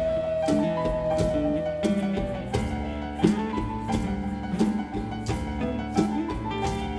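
Live band playing an instrumental passage: a long held indigenous flute note dips slightly in pitch and ends about two and a half seconds in, over keyboard chords and steady percussion hits, with the keyboard carrying on after.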